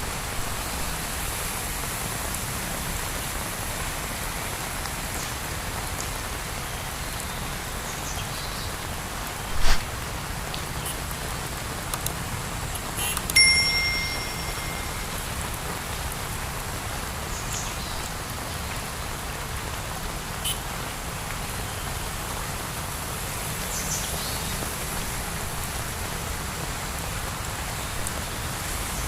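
Heavy rain falling steadily. About ten seconds in there is a sharp knock, and a few seconds later a brief high ringing tone.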